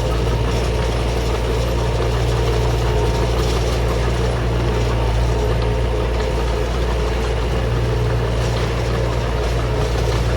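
Diesel engine of a small D20 crawler bulldozer running steadily at work, a constant low drone.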